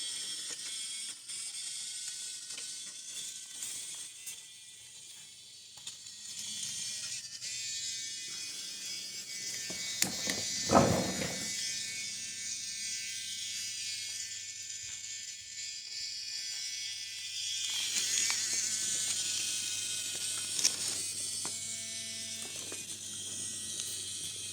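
Small battery-powered toy train motor whirring steadily with a gear rattle as it runs along wooden track, with one loud thump about halfway through.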